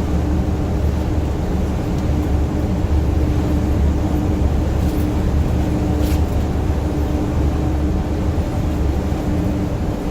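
Steady low rumble of a tour bus driving on the road, heard from inside the cabin, with a constant engine hum over the road noise.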